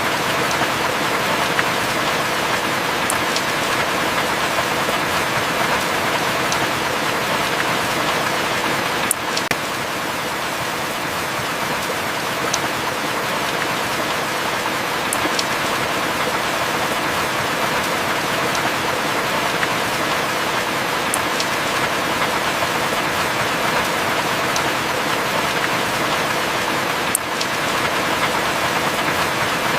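Heavy rain falling steadily, an even hiss with a few sharp drip ticks scattered through it.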